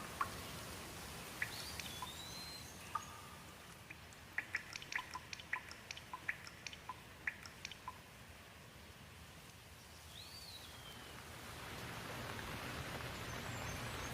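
Raindrops dripping in an irregular patter of sharp little clicks, with a bird chirping twice. The steady hiss of rain swells in over the last few seconds.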